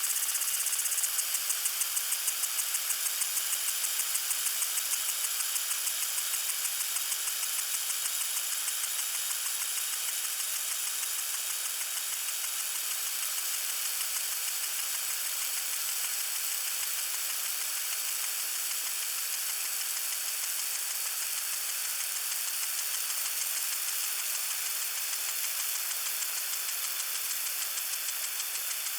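Lawn sprinkler spraying water: a steady hiss with a fast, even pulsing running through it.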